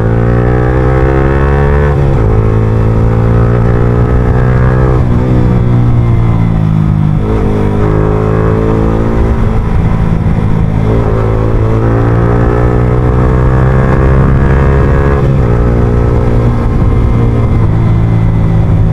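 Yamaha R15M's 155 cc single-cylinder engine through an Akrapovic full-system exhaust, pulling under load: the exhaust note climbs in pitch, then drops sharply at each upshift, about five times.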